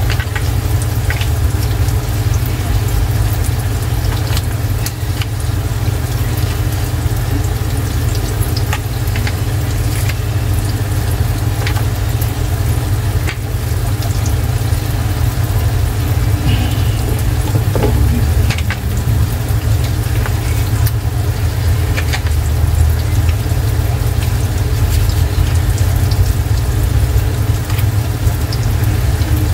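Breaded green tomato slices frying in oil in a pan: a steady sizzle with scattered pops, over a loud steady low hum.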